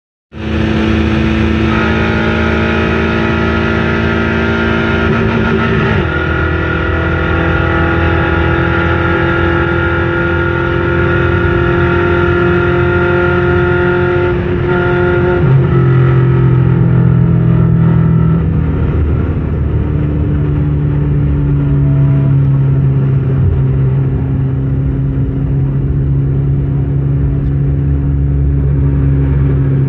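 Tofaş car with a Honda VTEC engine swap running through an aftermarket exhaust: a loud, continuous engine note held at steady revs, its pitch stepping abruptly to a new level several times.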